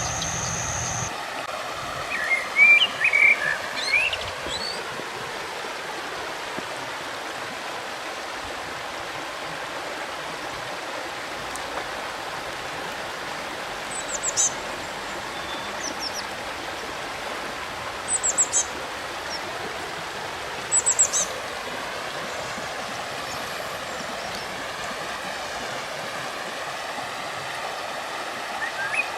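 Steady rushing of river water, with small birds calling now and then. There is a cluster of chirps a few seconds in, then short high calls at intervals through the middle. A steady high tone and low hum stop about a second in.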